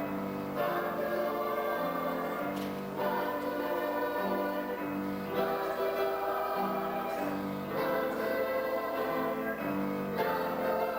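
A choir singing a song, with held notes that change pitch in a steady rhythm.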